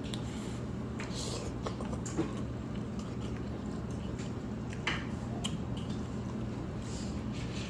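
Close-up eating sounds from noodles: chewing, wet mouth smacks and small clicks, two sharper clicks about two and five seconds in, over a steady low hum.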